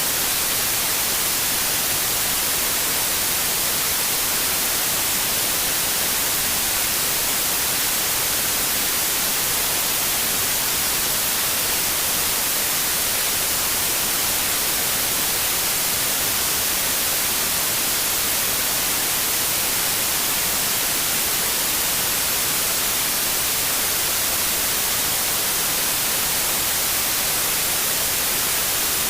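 Steady white noise: an even, unchanging hiss, brightest in the treble, at a constant level.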